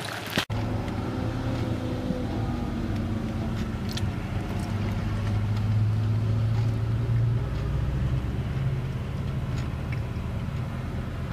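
Car engine running low and steady, heard from inside the cabin with road noise. Its note drops a little about seven seconds in as the car slows.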